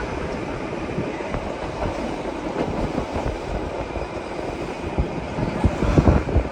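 Bernina Express train running along the track: a steady rumble of wheels on rails with scattered clacks, swelling louder near the end.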